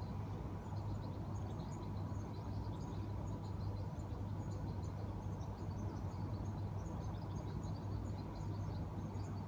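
Outdoor ambience: a steady low hum under many faint, short high chirps of birds calling in the background.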